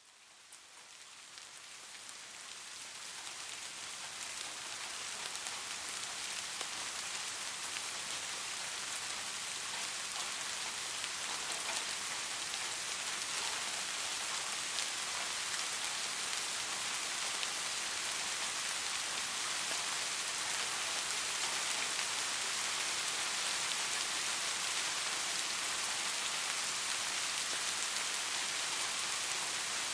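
Steady, dense rainfall: an even hiss of many raindrops, mostly high-pitched. It fades in from silence over the first several seconds, then holds steady.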